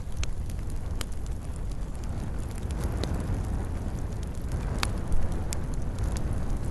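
Wood fire burning in a fireplace: a steady low rumble of flames with scattered sharp crackles and pops, a louder pop about five seconds in.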